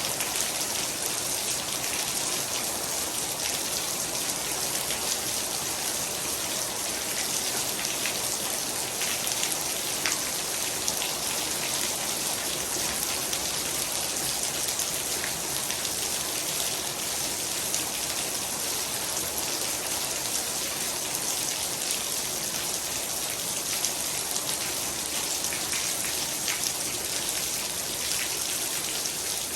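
Heavy rain falling steadily, a dense even hiss with countless small drop impacts on surfaces.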